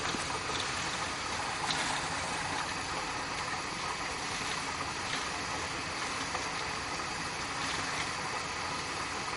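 Steady rushing of floodwater, an even noise without a break, with a few faint ticks.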